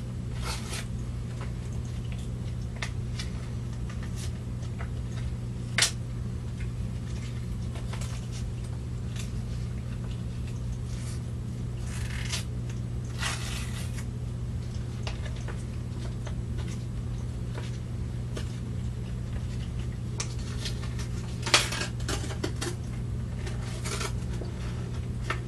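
Steady low hum with a few scattered clicks and rustles as a packet of the kit is opened and handled.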